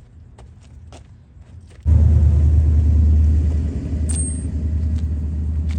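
A few faint metal clinks and clicks, then about two seconds in a loud, steady low rumble from a running motor or engine starts abruptly and keeps going.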